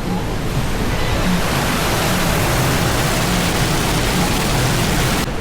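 Ouzoud waterfall's steady rushing roar of falling water, cutting off suddenly near the end, with faint music underneath.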